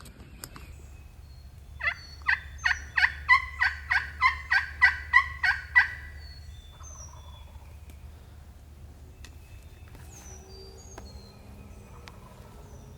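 Turkey yelping: a loud run of about twelve evenly paced yelps over about four seconds, each note dropping in pitch.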